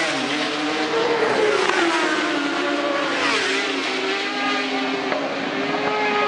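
1000cc racing superbikes at high revs, their engine note dipping and climbing back twice as they slow for corners and accelerate out.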